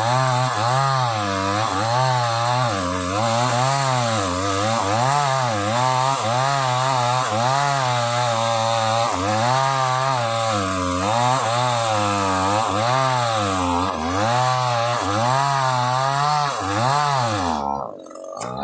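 Sumura CS6500S two-stroke chainsaw cutting through old timber, its engine note rising and falling about once a second as it bogs down and picks up again under load. It sounds strained in the cut. The sound briefly drops away near the end.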